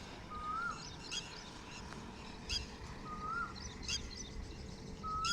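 Birds calling: a short whistled note that rises and drops at its end, repeated about every two and a half seconds, with thin, higher chirps from other birds between the calls.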